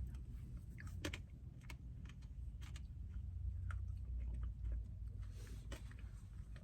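Close-up chewing and mouth sounds: scattered wet clicks and smacks as food is eaten, over a steady low hum.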